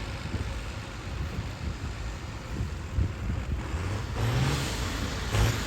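Competition pulling tractor's diesel engine running hard under load as it drags a weight-transfer sledge, getting louder about four seconds in.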